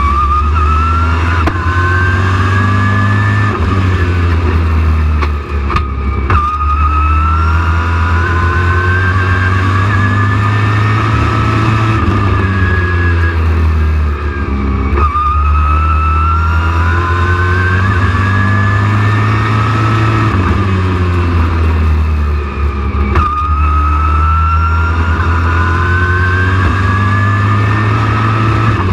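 Race truck engine at full race pace on a short oval: the engine note climbs steadily for several seconds along each straight, then drops sharply into each turn, repeating about every eight seconds over a steady heavy rumble.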